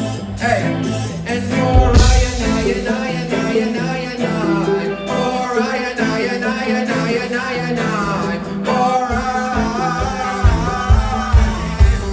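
Live reggae band playing through a festival sound system: heavy bass line under a wavering melodic lead, with strong low bass hits near the end.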